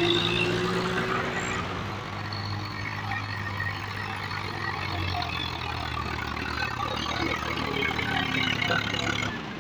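Tractor diesel engine running steadily, with a slight rising whine over the first second and a half; the sound drops away just before the end.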